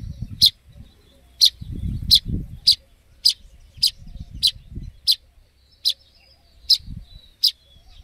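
Fledgling songbird calling with short, high chirps, repeated steadily about three every two seconds.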